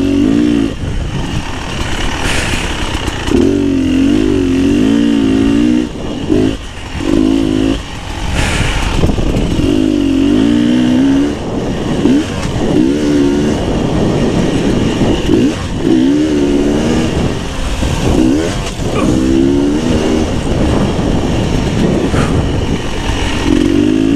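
Beta 300 RR two-stroke dirt bike engine being ridden on a trail, revving up and falling back again and again as the throttle is opened and closed, with brief drops in level between pulls.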